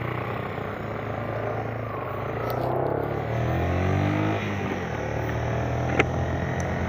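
Motorcycle engine running under way. Its pitch climbs for a couple of seconds, then drops back a little past the middle and runs on steadily. A single sharp click comes near the end.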